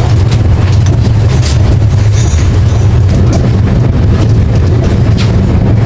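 Steady low rumble and light rattling inside a moving Tejas Express passenger coach, the carriage running along the track.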